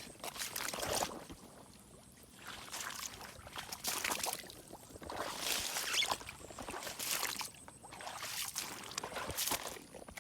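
Water splashing and sloshing in repeated bursts, about one a second.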